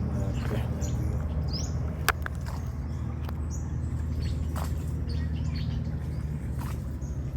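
Birds chirping in short scattered calls over a steady low engine hum, with one sharp click about two seconds in.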